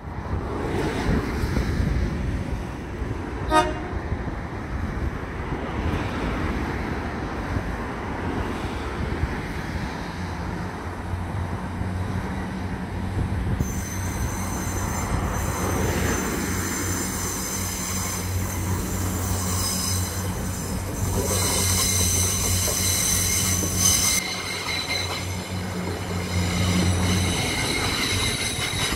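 Irish Rail 22000 class diesel multiple unit departing and running past: a steady low diesel engine hum builds from about eleven seconds in, with high-pitched wheel squeal over it that is loudest a little after twenty seconds. A short toot sounds about three and a half seconds in.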